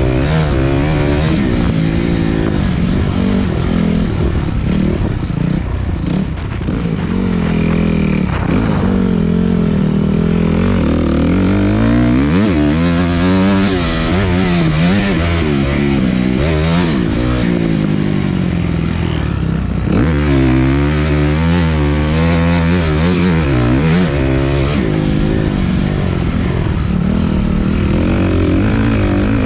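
Dirt bike engine running under way, its pitch rising and falling over and over as the throttle is opened and rolled off, with rushing noise over it.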